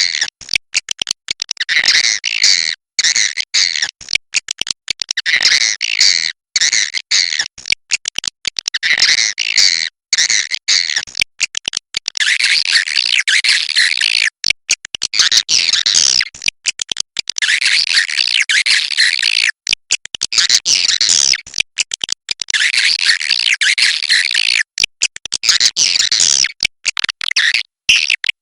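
Swiftlet calls (walet): a dense, continuous stream of high, rapid twittering chirps in repeating phrases, broken by frequent abrupt short dropouts. This is a swiftlet-house 'inap' lure sound, played to make swiftlets settle and roost.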